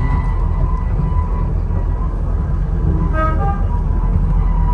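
Miniature railway train running, a steady low rumble heard from inside a passenger carriage, with a brief horn toot about three seconds in.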